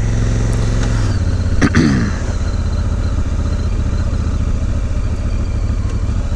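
Honda Africa Twin's parallel-twin engine running as the motorcycle pulls away, with a sharp click about a second and a half in. After about two seconds the engine settles into a steady, even note.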